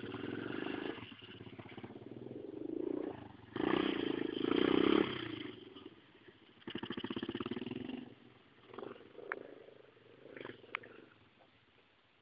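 Pit bike engine revving in surges as it is ridden, loudest about four seconds in, then dying away in the last few seconds.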